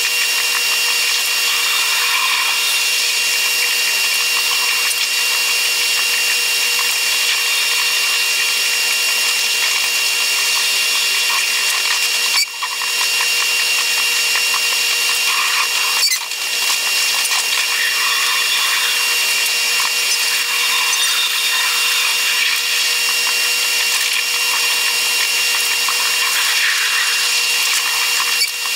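Taiwan Railways EMU100 train's running noise played back eight times fast: a steady, high-pitched whirring with held tones. It breaks off briefly twice near the middle and once near the end.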